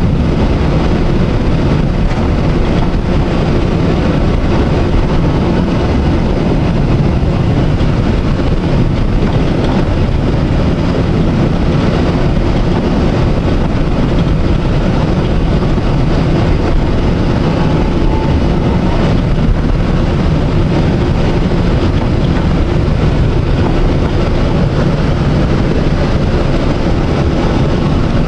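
Electric tram running along its line: a steady, loud noise of motors and wheels on the rails, heavy at the low end.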